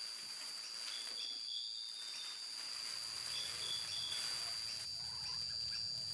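Night-time insect chorus: a steady high-pitched buzz with short chirps repeating over it. A faint low rumble comes in about halfway through.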